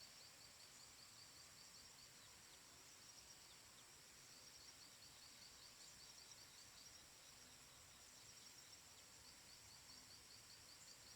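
Faint tropical forest ambience: a steady high insect hum, with three runs of quick, high, short chirps, about seven a second, at the start, in the middle and near the end.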